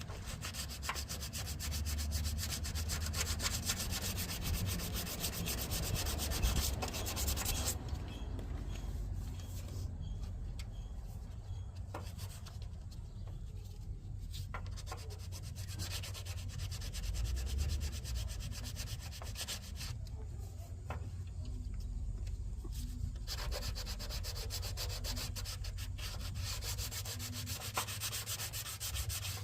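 Sanding on a Nissan 300ZX's engine-bay body work: a steady, scratchy rubbing, heaviest for the first several seconds and again near the end, lighter in between.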